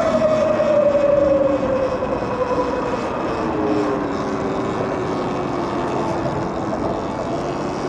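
Electric bike motor whining as the bike rides, the whine falling slowly in pitch as it slows, over the rush of wind and tyres on the path.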